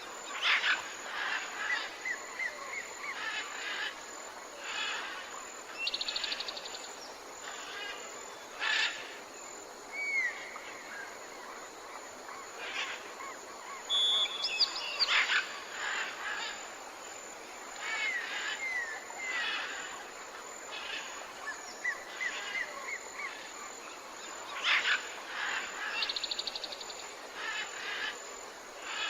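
Several birds calling: short sharp calls, slurred whistled chirps and a quick high trill now and then, over a faint steady hiss.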